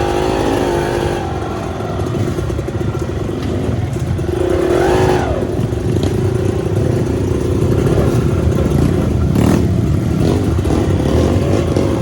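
Off-road trail motorcycle engine running under load, revving up and back down about four to five seconds in, with clattering and a sharp knock about nine and a half seconds in.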